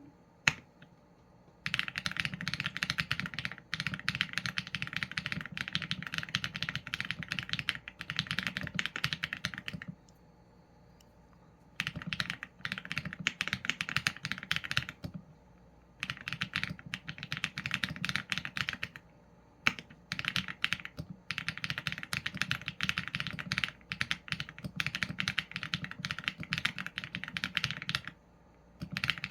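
Typing on a Qsenn A75 mechanical keyboard with Leobog Graywood v4 linear switches and PBT keycaps: runs of fast keystrokes lasting a few seconds each, broken by short pauses, with a single sharp click about half a second in.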